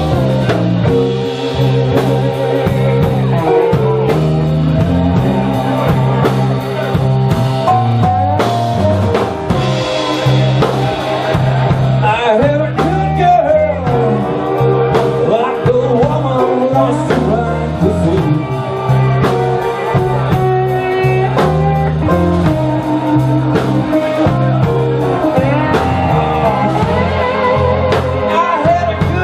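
Blues-rock band playing live: electric guitar with bent, wavering notes over a steady bass line and drum kit.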